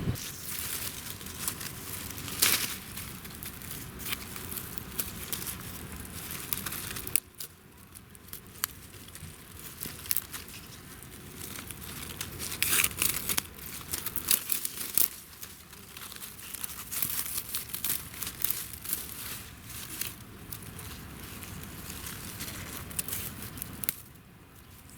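Dry plant material crackling and tearing as it is handled and pulled apart, in an irregular run of crisp snaps and crinkles.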